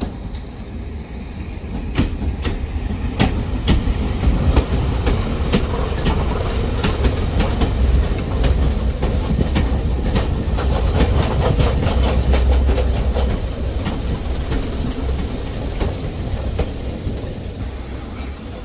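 A railway train running, its wheels clicking over rail joints and pointwork at irregular intervals over a steady low rumble. The sound builds, then eases off near the end.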